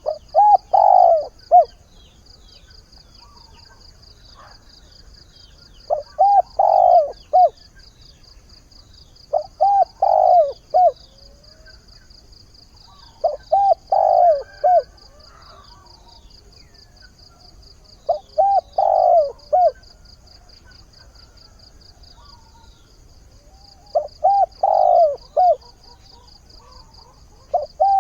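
Spotted dove cooing its short multi-note mate-calling phrase, repeated about every four to five seconds, seven times. A steady, high-pitched pulsing trill runs underneath.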